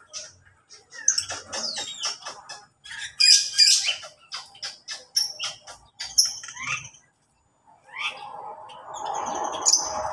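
Mixed cage birds in an aviary chirping and twittering in quick, high calls and short glides. Near the end a steady rushing noise rises and covers them.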